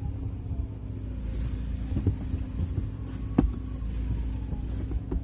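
A steady low engine rumble with a constant hum, and a few sharp knocks, the loudest about three and a half seconds in.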